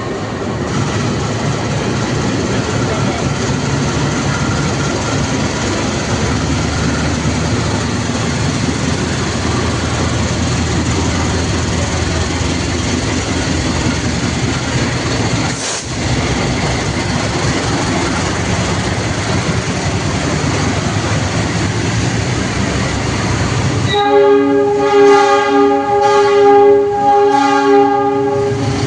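A train running through the station with a steady rumble of wheels on the rails. Near the end its horn sounds in about four pulsed blasts over some four seconds.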